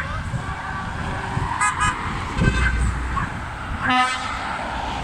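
Horns tooting from passing tractors: two short toots near the middle and a louder one about four seconds in, over the low running of their engines.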